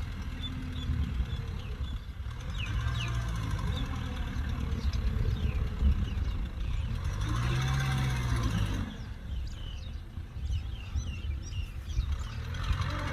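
Kubota tractor engine running under load in mud, its note swelling and falling, with a quieter stretch near the end. Many short, high chirps sound over it.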